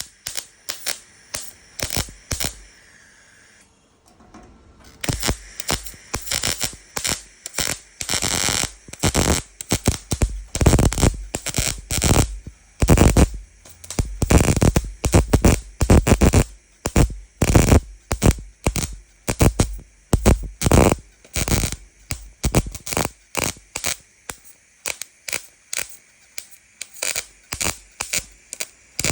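Welder laying a series of short stitch or tack welds on sheet steel of a Toyota Sports 800's partition panel: short bursts of arc noise, roughly one or two a second, each under a second or so long, with a brief pause about three seconds in.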